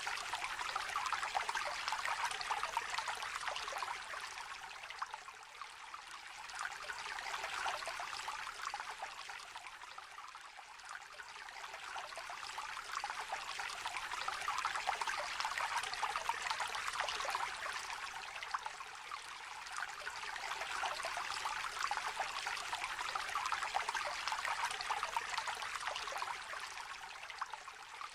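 A small shallow stream trickling and babbling, a dense fine-grained splashing that swells and eases gently every few seconds.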